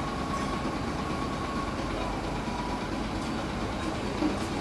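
Heavy vehicle's engine running steadily at idle, a low even rumble with no sudden events.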